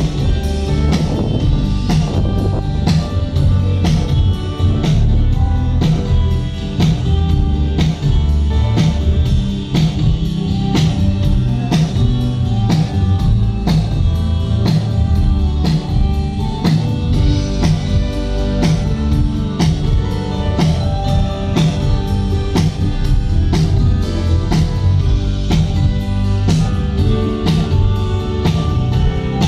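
A band playing live music with a drum kit and guitar, keeping a steady beat, as at a stage sound check.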